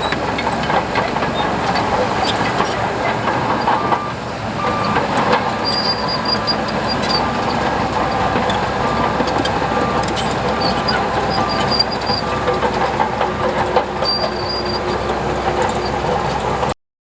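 Heavy earthmoving machinery at work: a diesel engine running under load with rattling, clanking metal, like crawler tracks and steel parts. It cuts off abruptly near the end.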